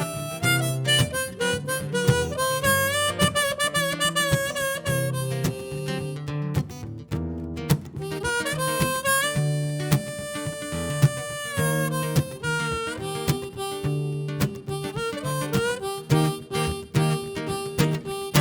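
Harmonica solo with bent, sliding notes over strummed acoustic rhythm guitar, an indie folk-blues instrumental break.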